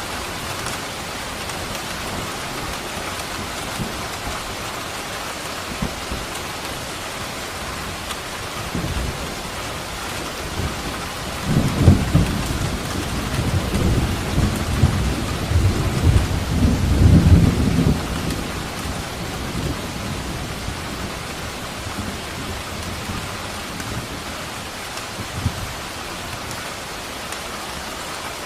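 Steady rain falling with a rolling thunderclap: a low rumble builds about a third of the way in, swells for several seconds, then fades back under the rain.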